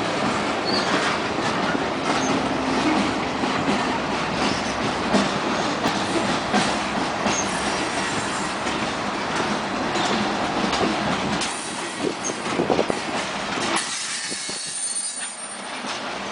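Freight train cars rolling past on the track, their wheels clicking over rail joints, with a faint high wheel squeal near the end.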